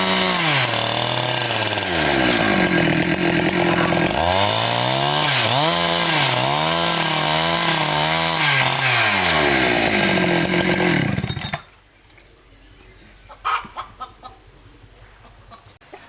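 Chainsaw engine running loudly, its pitch dropping and rising again and again, then stopping suddenly about eleven seconds in. A few faint knocks follow.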